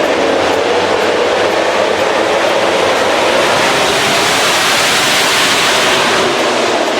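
A pack of 1000cc MotoGP racing bikes at the race start, their engines a loud, steady drone that swells about five seconds in.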